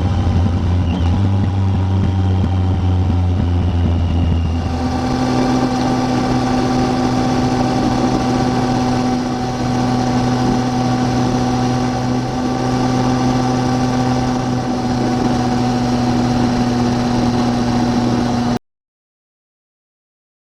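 Triumph Tiger 800's three-cylinder engine running steadily on the move, its note stepping up to a higher pitch about four seconds in as the revs rise. The sound cuts off abruptly to silence near the end.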